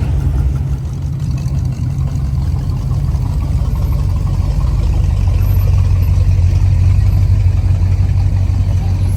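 A vehicle engine running with a steady low drone that gets slightly louder partway through.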